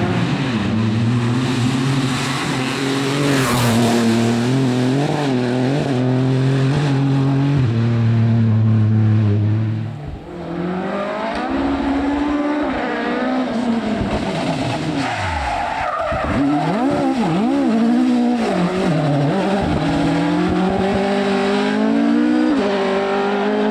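Rally car engine revving hard on a stage, its pitch rising and falling with gear changes and lifts off the throttle. The sound dips briefly about ten seconds in, then picks up again, with a deep downward sweep and renewed revving after it.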